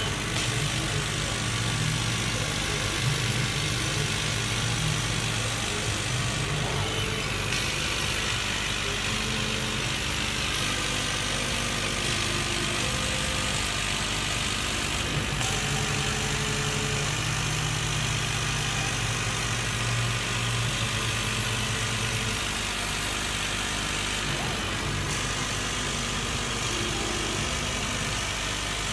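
Laser cutting and engraving machine running: a steady hiss from its fans and air, with a low hum and short whirring tones that change pitch every second or so as the head's motors move.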